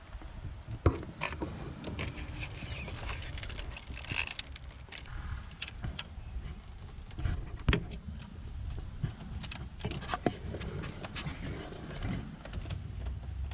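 Scattered clicks and knocks of hand tools and metal parts being handled in an engine bay as an ignition coil is put back in over a spark plug, with two sharp knocks standing out, one about a second in and one past the middle.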